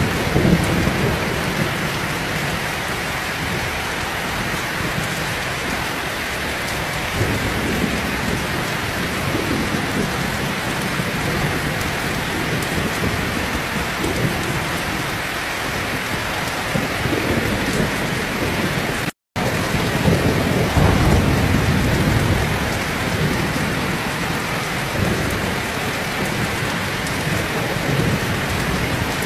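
Heavy rain pouring steadily, with low thunder rumbling near the start and again about two-thirds of the way through. The sound cuts out completely for a split second just before the second rumble.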